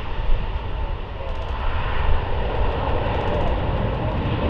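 Airbus A321neo XLR's twin CFM LEAP-1A turbofans at high thrust on departure: a steady jet engine noise with a heavy low rumble.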